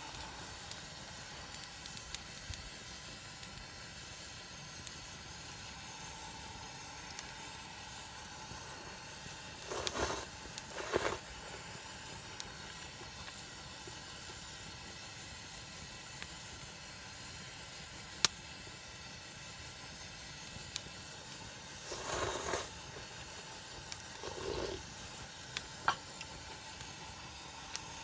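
Steady hiss of camp cooking, with a few short rustling noises and some sharp single clicks.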